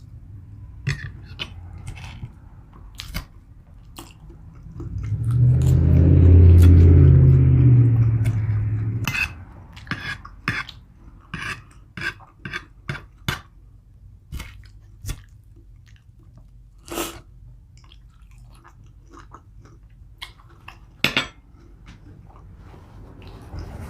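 Close-miked chewing and biting of food, with wet smacks and scattered clicks of cutlery and dishes. About five seconds in, a loud, low, drawn-out sound lasts some four seconds.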